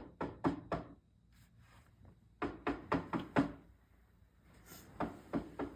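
Knocking on a door: three bouts of quick raps, four or five knocks in each, with pauses of about a second and a half between them.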